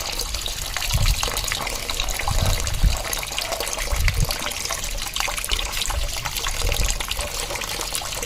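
Running water splashing steadily as a hill myna is bathed, with a few dull low thumps about a second, two and a half seconds and four seconds in.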